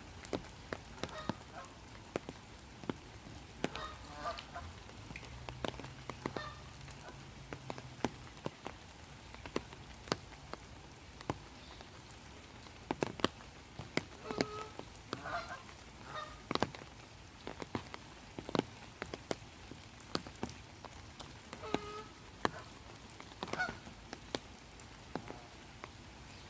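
Steady rain with sharp individual drops pattering close by. Geese honk now and then: bouts of short calls about four seconds in, around the middle, and near the end.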